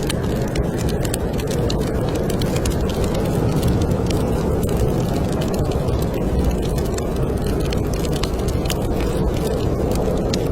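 Steady, low snowstorm wind noise with a fireplace fire crackling over it: frequent small, irregular pops and snaps.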